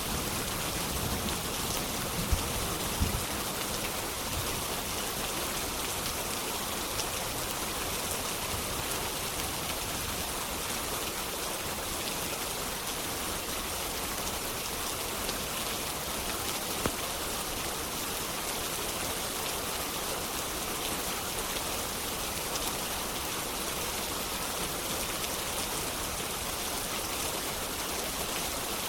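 Steady rain falling on a window. A few sharp pops stand out from it, two about two to three seconds in and one more midway through.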